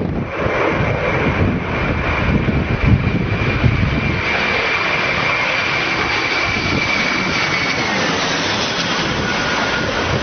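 Airplane engines running loud, a rushing roar with a steady high whine that drops in pitch near the end.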